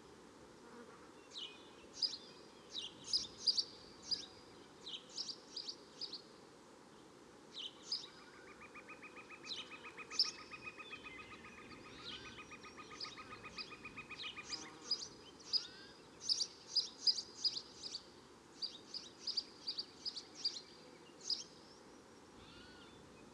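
Birds chirping, a string of short sharp calls repeating throughout. A rapid buzzing trill runs for about six seconds in the middle, from an insect or bird.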